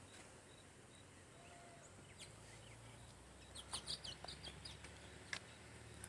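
A bird chirping, a quick cluster of short high notes about halfway through, over a faint low background hum.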